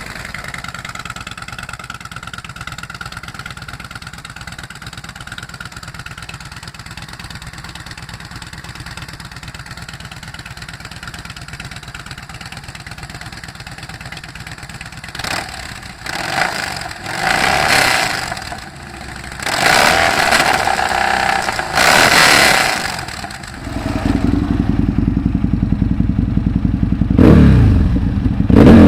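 Motorcycle engine idling steadily through its exhaust, then blipped several times in short, sharp revs. About 24 seconds in, a louder, deeper engine sound takes over, with two quick revs near the end.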